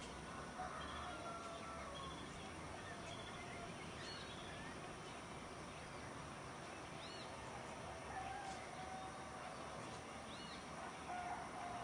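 Faint rural outdoor ambience: a bird repeating a short high call about every three seconds over a steady background hiss.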